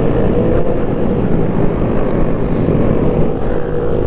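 Kawasaki Z125's small single-cylinder engine running steadily under way, heard from the rider's seat as a loud continuous drone with an even pitch.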